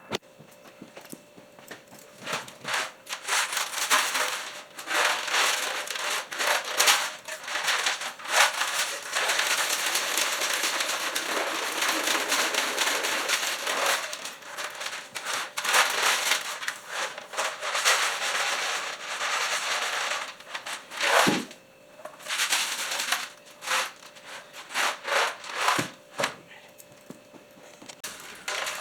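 Cleaning solution sloshing and swishing inside an Allis-Chalmers WC's steel fuel tank as the tank is swirled and tipped by hand, in irregular surges with some longer steady stretches.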